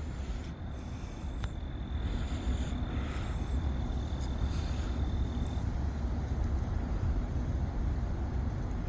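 Low, uneven rumble of wind buffeting the phone's microphone outdoors. A thin, steady high tone runs through the first five seconds or so.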